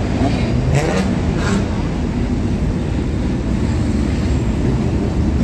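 Car engines running, a low steady rumble with some shifts in pitch, and two short sharp sounds about a second and a second and a half in.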